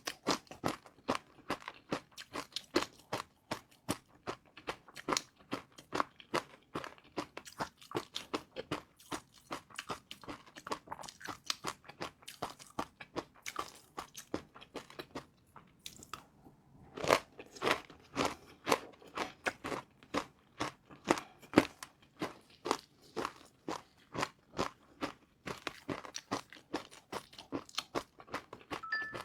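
Close-up eating sounds: crispy fried noodles being bitten and chewed with rapid, irregular crunching. There is a short pause about halfway through, then louder crunches.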